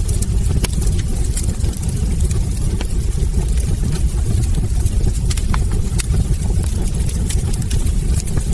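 Wood fire burning in a fireplace: a steady low rumble from the flames, with frequent irregular sharp crackles and pops from the burning logs.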